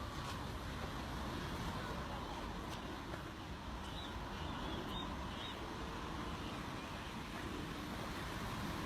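Steady rushing outdoor noise, with a few faint high chirps about four to five seconds in.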